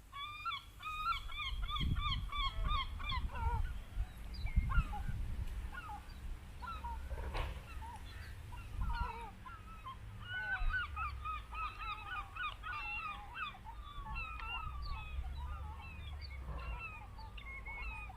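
A flock of geese honking, many short calls overlapping, thick at the start and again through the second half with a thinner stretch in between, over a low rumble.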